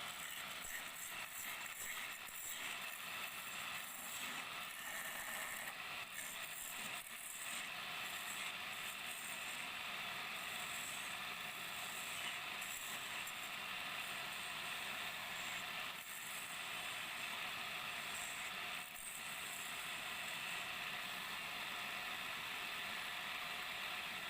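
Wood lathe running while a turning tool cuts the spinning wood, a steady hissing scrape that breaks off briefly a few times as the tool is lifted.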